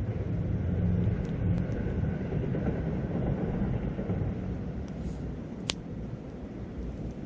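Wind rumbling on the microphone beside a wood campfire, with one sharp crackle from the burning wood about five and a half seconds in.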